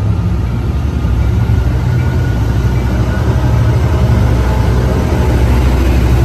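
Amtrak F59PHI diesel locomotive's engine running loud and steady as it pushes a passenger train past, most of its sound low in pitch.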